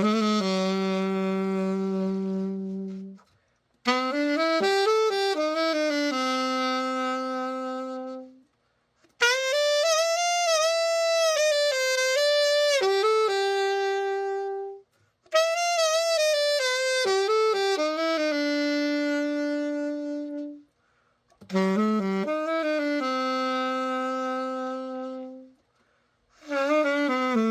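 Grassi Prestige alto saxophone, freshly overhauled, played solo in a slow melody of long held notes, in about six phrases with short breath pauses between them and vibrato on some notes.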